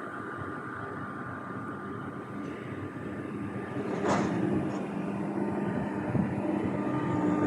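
SNCF Z 20500 double-deck electric train approaching, its running noise growing steadily louder with a hum building up in the second half and a short sharp click about four seconds in.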